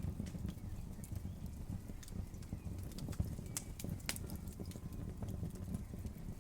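Campfire burning: a steady low rumble with irregular sharp crackles and pops from the burning wood, the loudest pop about three seconds in.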